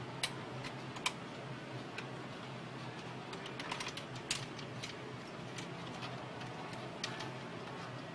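Irregular small sharp clicks and taps, about a dozen with a cluster near the middle, over a steady low hum.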